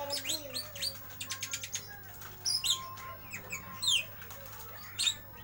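Lovebird singing in quick 'ngeriwik' chatter: clusters of sharp high chirps and short downward-sweeping squeaks, the loudest about two and a half and four seconds in. A steady low hum runs underneath.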